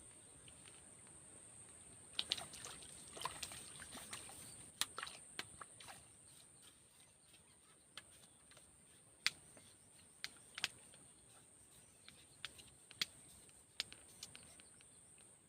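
Steady high-pitched insect drone, with scattered sharp clicks and taps that come in a cluster a couple of seconds in and then more sparsely.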